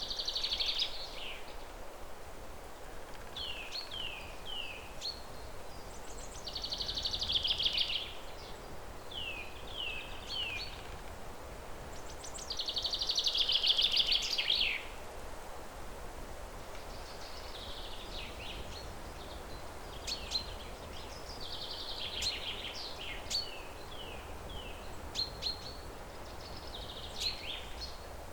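Small songbirds singing: fast trilled phrases, the loudest about a third and halfway through, alternate with runs of three or four short, falling whistled notes, repeating through the stretch. A steady low rumble sits under the song.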